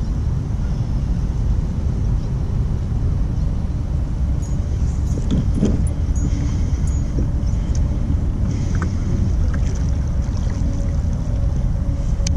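Strong wind buffeting the microphone, a steady low rumble, with a few faint clicks over it.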